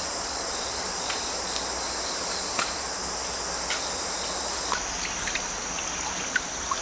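Autumn crickets and other grass insects trilling in a steady, high-pitched chorus, with a few scattered short clicks. The chorus shifts slightly in pitch about two-thirds of the way in.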